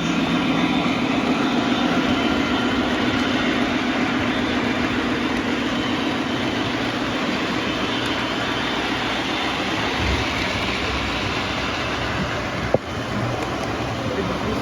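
Lionel model train running steadily along the track, with one sharp click near the end.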